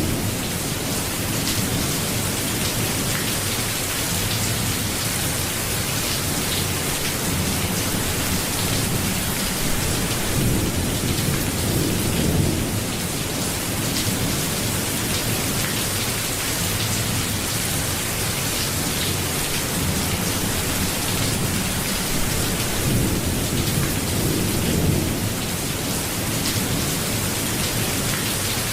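Steady rain falling, with low rolls of thunder swelling twice, about twelve seconds in and again near the end.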